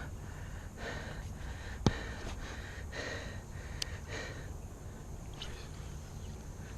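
A person breathing hard, with soft breaths recurring about once a second, and a single sharp click or knock about two seconds in.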